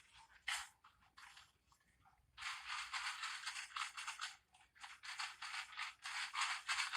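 Rapid scratchy rubbing noise in quick, closely packed strokes, starting about two and a half seconds in, after a few isolated scrapes.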